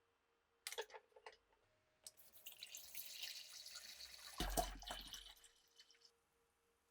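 A few light clicks, then water running for about four seconds, with a knock near the middle, before it fades out.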